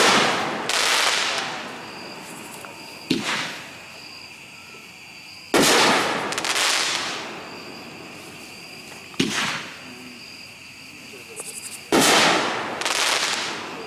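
Consumer firework cake (Boomwow Never Underestimate) firing shot by shot. Three loud bangs about six seconds apart each trail a second or two of crackling hiss, and a smaller pop comes a couple of seconds before the second and third. Crickets chirp steadily underneath.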